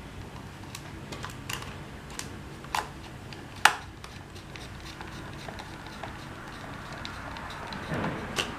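Irregular light clicks and taps of small hard parts being handled while a toy drone is worked on, with one sharp, louder click a little before the middle and a few more near the end.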